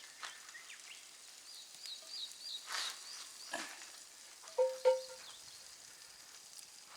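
Food sizzling on a grill over a campfire, a faint steady crackle and hiss. A bird chirps a short run of notes early on, and two short, sharp clinks stand out about four and a half seconds in.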